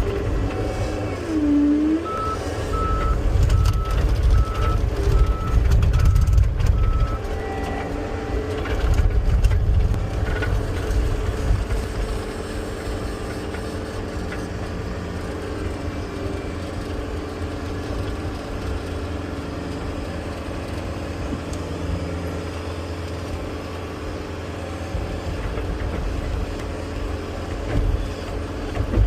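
Diesel engine of a John Deere compact track loader working, louder through the first ten seconds and then running steadily. A backup alarm beeps at an even pace, starting about two seconds in and lasting about five seconds.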